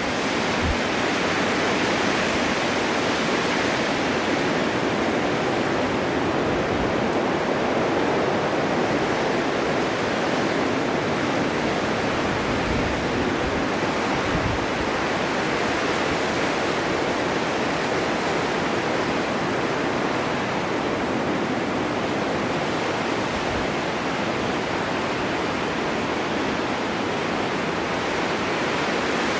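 Winter snowstorm wind blowing steadily, an even rushing hiss with only slight swells and a few faint low rumbles.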